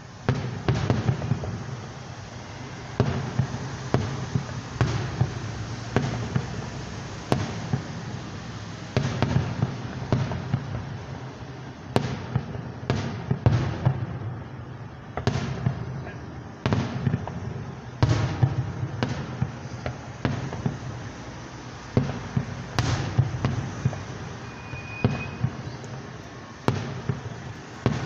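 Aerial firework shells bursting one after another: sharp bangs roughly every one to two seconds, each followed by an echo that rolls away.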